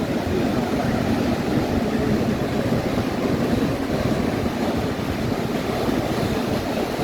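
Steady rush of Atlantic surf on the beach as the tide comes in, with wind on the microphone.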